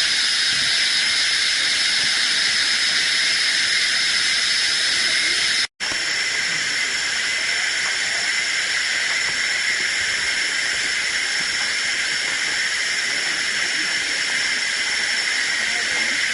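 Steady, dense insect chorus, high and shrill, of the kind cicadas make in tropical forest. It drops out for an instant about six seconds in, then carries on unchanged.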